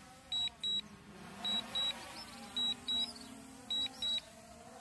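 DJI drone remote controller's low-battery alarm: a high electronic double beep repeating about once a second. It warns that the battery is critically low, and the drone starts landing on its own.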